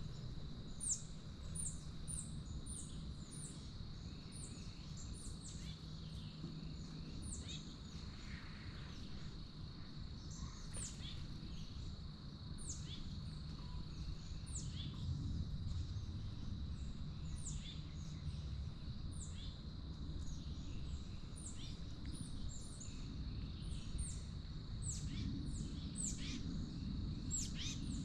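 Small birds chirping around a backyard feeder: many short, high chirps that each slide down in pitch, coming irregularly throughout, over a steady high-pitched hum and a low background rumble.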